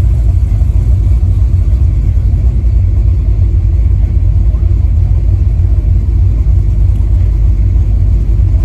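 V8 engine of a Chevy LUV pickup running steadily on the road, a loud, even low rumble with no change in pitch.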